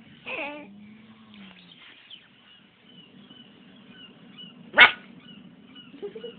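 A person imitating a dog's barking, convincingly dog-like: a short bark falling in pitch near the start, then one sharp, loud bark about five seconds in.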